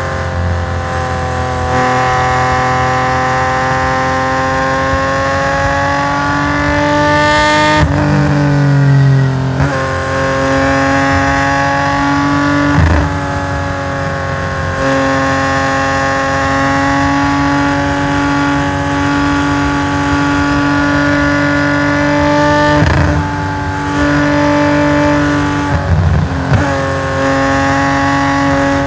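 Nissan S20 2.0-litre straight-six in a race-tuned Skyline 2000GT-R, heard onboard under hard acceleration through a stainless equal-length exhaust. The pitch rises through each pull and breaks off sharply at gear changes about half a dozen times.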